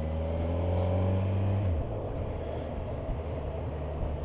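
Kawasaki Versys 1000 inline-four engine running under way, its note rising slightly and then falling away about two seconds in, over steady wind and road noise.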